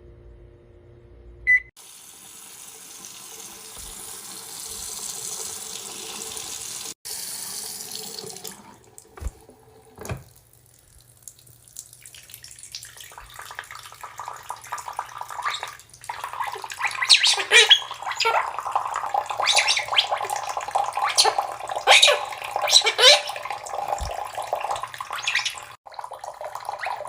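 Water running from a tap and splashing. A steady hiss comes first, then a busier, louder stretch of splashing with many short peaks in the second half.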